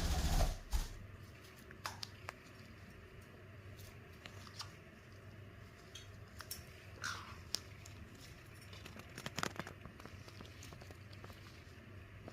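Soft fabric rustling and small scratchy clicks as a caique parrot moves and rubs against a cloth blanket. There is a louder rustle in the first second and a quick cluster of scratches about nine seconds in.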